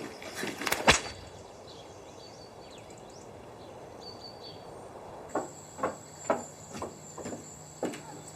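A soundtrack background with a few sharp knocks in the first second, the loudest about a second in, then faint high chirps. About five seconds in, a steady high-pitched trill begins, together with a run of short knocks about twice a second.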